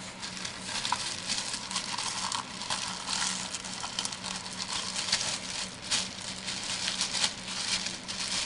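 Plastic bag crinkling and rustling as resin model parts are handled and unpacked, with many small crackles and clicks.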